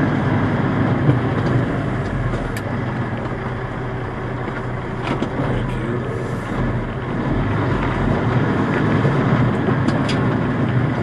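Steady low rumble of diesel truck engines running, with a few faint clicks.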